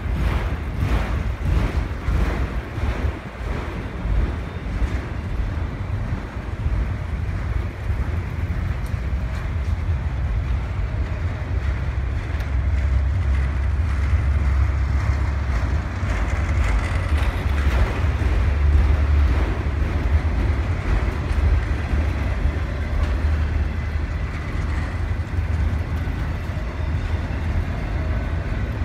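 Long freight train of autorack cars rolling past: steady rumble and rattle of steel wheels on the rails, with regular clacks in the first few seconds. Wind buffets the microphone.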